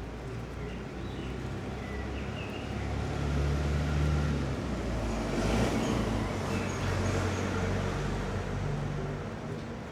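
A motor vehicle passing along the street: a low engine rumble with tyre noise that swells to its loudest a little past the middle and then fades.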